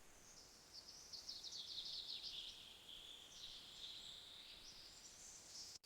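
Faint high-pitched jungle wildlife calls: a rapid pulsing trill about a second in, then a steadier high buzzing call that shifts in pitch and cuts off suddenly near the end.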